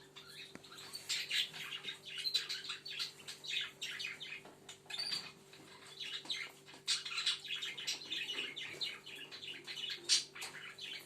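Budgerigars chattering, a continuous stream of rapid short chirps and warbles from several birds, over a faint steady hum.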